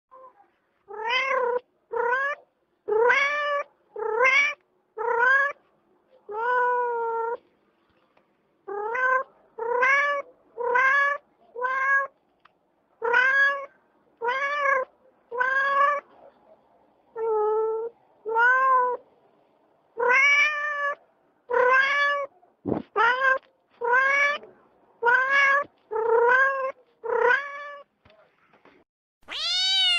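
A cat meowing over and over: about two dozen short meows, each rising then falling in pitch, roughly one a second with a few longer pauses. Near the end a higher, louder meow begins, falling in pitch.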